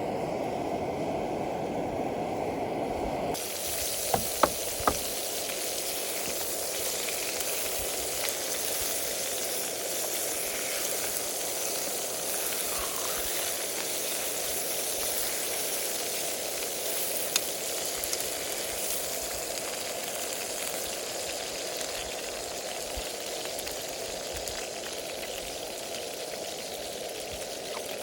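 Food frying, with a steady sizzle that turns brighter and hissier about three seconds in. A few sharp clicks or pops come shortly after, and one more later on.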